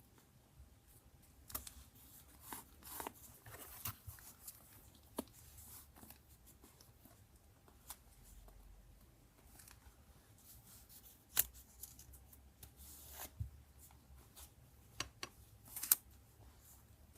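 Paper and stationery being handled for collage journaling: scattered short rustles, crinkles and taps, with a sharp click about eleven seconds in and another near the end.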